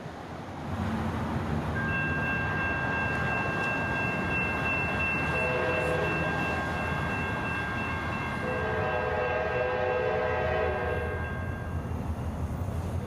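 Diesel locomotive of a CSX freight train running, its engine rumble building about a second in. Its air horn sounds twice, a shorter blast in the middle and a longer one near the end, over a steady high-pitched tone.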